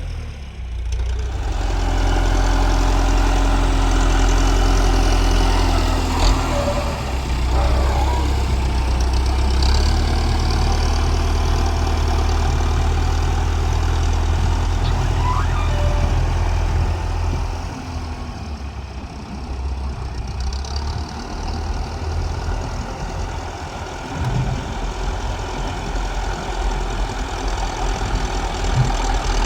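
Tractor engine running steadily with a deep rumble, its level dropping for a moment at the start and easing off a little over halfway through.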